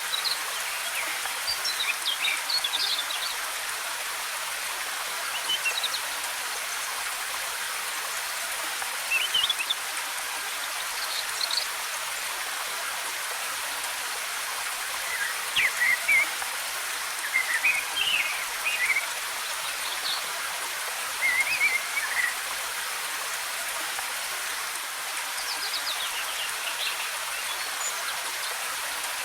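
Steady hiss of cascading waterfall water, with forest birds chirping in short, scattered phrases; the chirps are busiest about halfway through and again near the end.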